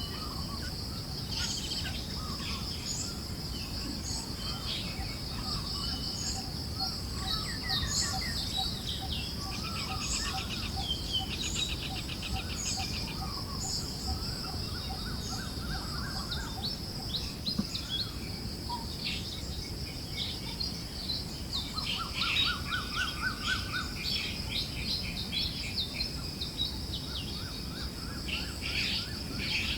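Forest ambience: many birds chirping and trilling over a steady high-pitched insect drone and a soft, constant wind noise.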